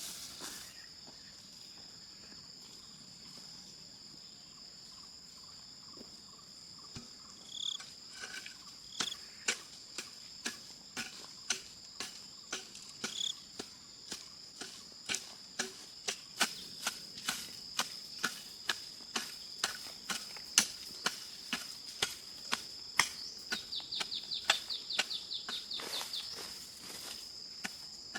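Insects shrilling in one steady high drone. From about seven seconds in, sharp knocks start, about one to two a second, with a quick run of clicks a couple of seconds before the end.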